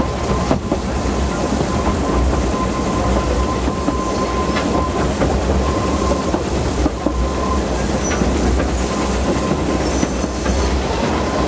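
Narrow-gauge Welsh Highland Railway train running: a steady rumble with the clickety-clack of wheels over rail joints and a thin, steady wheel squeal.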